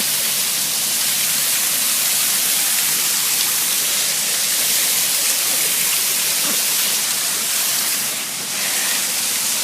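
Small waterfall rushing: a loud, steady hiss of falling water, briefly softer about eight seconds in.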